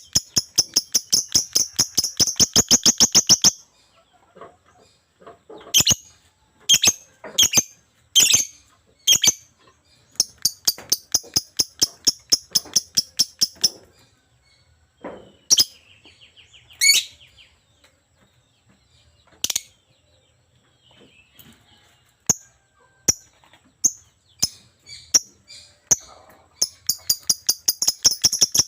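Lovebird chattering vigorously: fast runs of sharp, high chirps, about seven a second, broken by single loud shrill calls and short pauses.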